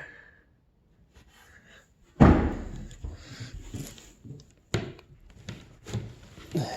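A storage hatch lid on a jon boat deck slams down loudly about two seconds in, then several lighter knocks as the hatches are handled.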